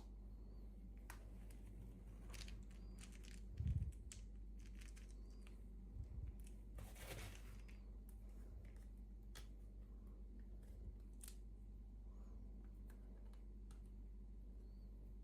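Faint handling of small packaging: scattered light clicks, a soft thump a little under four seconds in and another about six seconds in, and a brief rustle about seven seconds in, over a steady low electrical hum.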